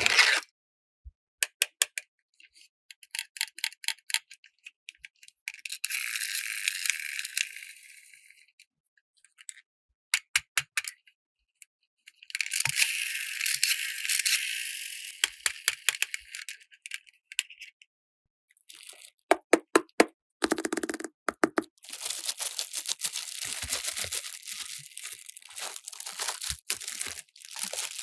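Handling of a plastic toy playset: small plastic pieces click and rattle. Between the clicks come stretches of plastic packaging crinkling and tearing, with denser crackling near the end.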